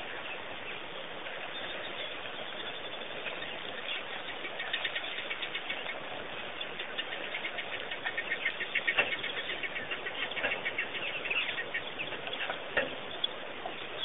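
Small birds chattering in fast, dense bursts of chirps over a steady outdoor hiss; the chatter builds up about four seconds in and is busiest in the middle.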